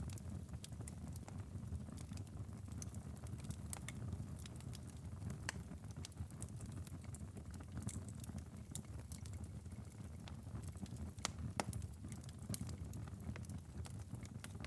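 Wood fire crackling in a fireplace: irregular sharp pops and snaps over a steady low sound of the burning flames.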